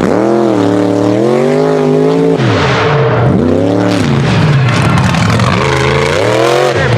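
Loud mega truck engine revving hard, its pitch swinging up and down several times as the throttle is worked, with two deep drops where it comes off the gas. A rush of hissing noise comes in about two and a half seconds in.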